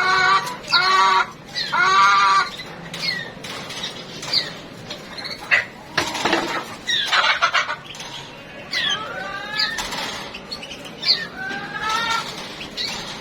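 Domestic hens clucking and squawking, a run of repeated drawn-out calls that fall in pitch.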